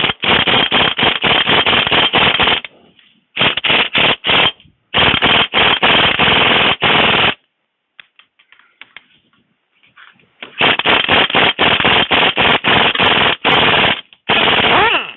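Impact wrench hammering in several long bursts with a pause in the middle, breaking loose and spinning out the bolts on an excavator's final drive sprocket.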